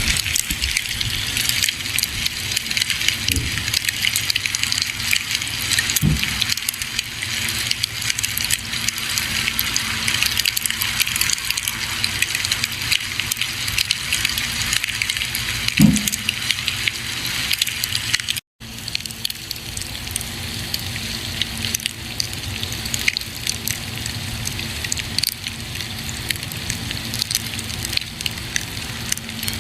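Campfire burning: a steady hiss thick with small crackles, and a few louder pops, the loudest about 16 seconds in. The sound cuts out for an instant about two-thirds of the way through.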